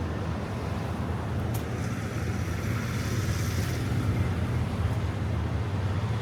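Car driving, heard from inside the cabin: a steady low engine and road drone.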